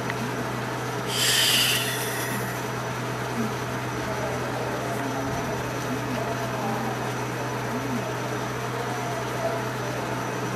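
A stationary JR West 105 series electric train standing with its doors open, its onboard equipment giving a steady low hum. A short hiss comes about a second in.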